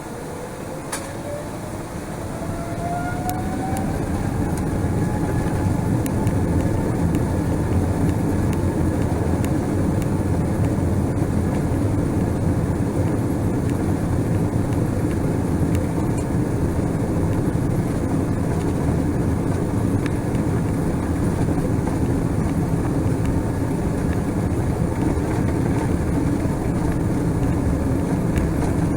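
Boeing 777-300ER's GE90 jet engines spooling up to takeoff thrust, heard from inside the cabin: a rising whine over the first few seconds as the engine noise grows louder, then steady loud engine and runway rumble.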